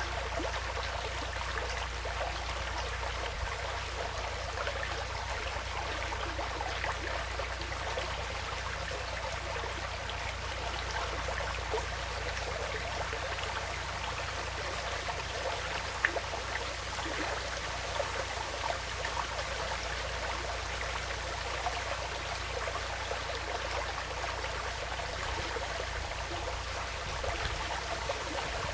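Small woodland stream trickling and babbling steadily over stones, with one sharp click about halfway through.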